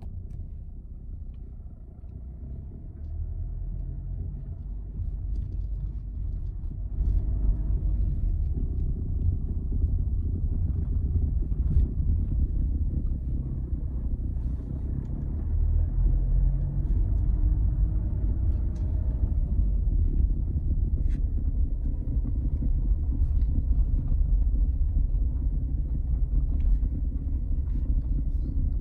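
Skoda Octavia Mk3 1.6 TDI diesel car moving, a steady low rumble that grows louder about seven seconds in, with scattered faint clicks and knocks: the rattle that this car makes when steered to the left.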